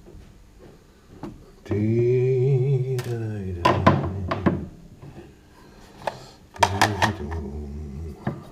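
A man's drawn-out wordless vocal sound, then a series of sharp knocks, clustered a few seconds apart.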